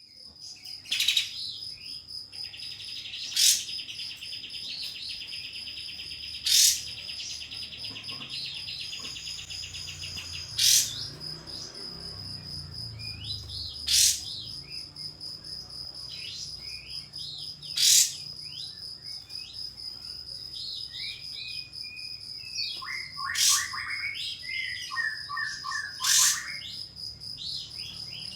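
White-shouldered triller (kapas tembak) calling: loud, sharp, whip-like notes every three to four seconds, with shorter chattering trills between them, busiest near the end. A buzzing drone runs under the first ten seconds and a steady high whine lies under it all.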